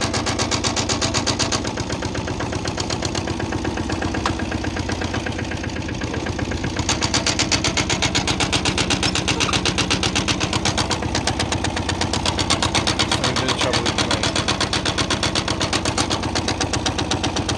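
Tractor engine running steadily with an even, rapid pulsing beat; it drops a little about two seconds in and comes back up about seven seconds in.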